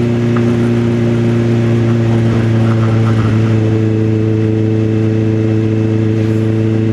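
Motorcycle engine running at a steady engine speed, its pitch holding level with no revving.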